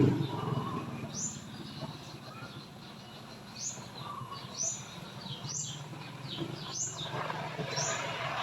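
A bird calling with short, high, upward-sweeping chirps, repeated six or seven times at roughly one-second intervals. A steady low hum runs underneath.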